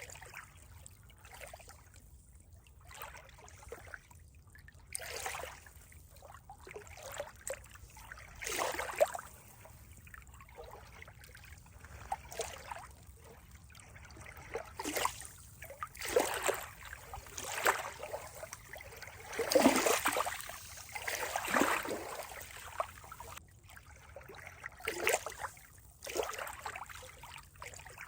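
Water trickling and splashing in uneven bursts, loudest in the middle.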